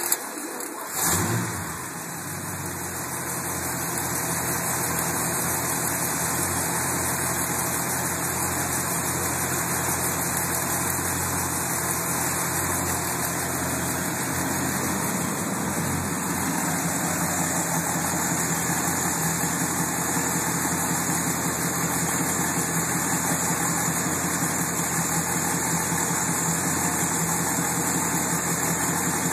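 V8 engine started again after stalling: it catches about a second in with a short burst, then settles into a steady idle.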